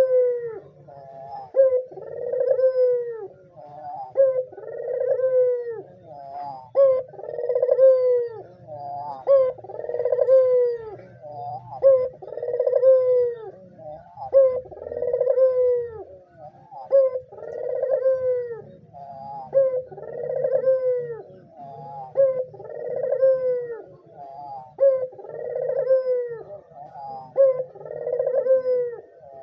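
Barbary dove (puter) cooing persistently. It repeats the same arched, rising-and-falling coo about once every two and a half seconds, about a dozen times over.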